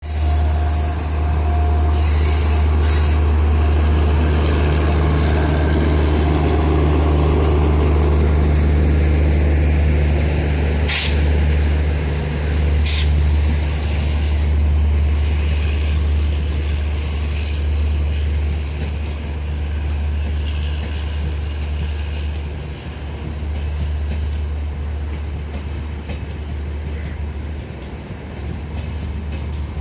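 Passenger express train hauled by a WAP-7 electric locomotive running past on the rails with a heavy, steady rumble of wheels and coaches. Two short, sharp high-pitched noises come about a third of the way in. The sound eases off somewhat in the second half.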